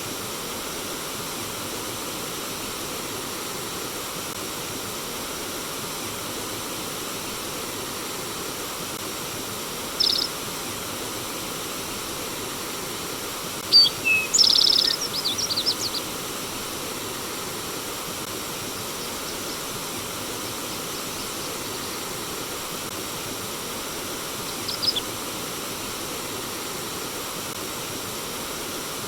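Steady rush of flowing stream water, with birds chirping over it: a short call about ten seconds in, a louder run of chirps and a quick trill about halfway through, and one brief call near the end.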